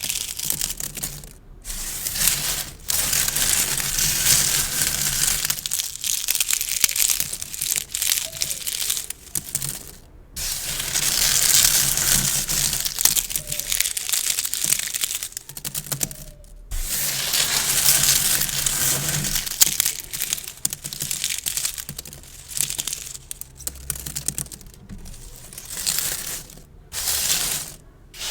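Gift bows being handled and crinkled close to the microphone: long stretches of crinkly rustling broken by short pauses, turning into shorter, choppier bursts near the end.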